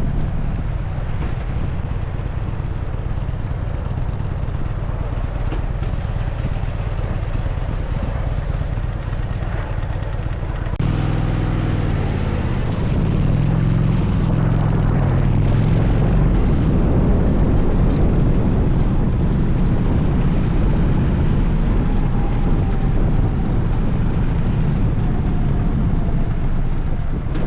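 Harley-Davidson Dyna Super Glide's air-cooled V-twin engine running under way, with wind noise over the microphone. About eleven seconds in the engine note changes suddenly and it runs louder from there.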